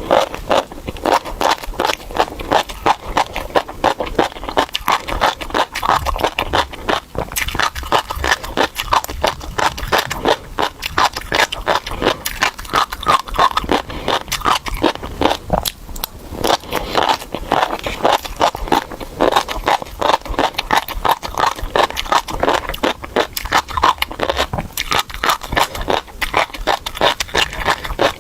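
Close-miked chewing of a mouthful of crunchy tobiko (flying fish roe), heard as a steady stream of many rapid clicks as the eggs are crunched.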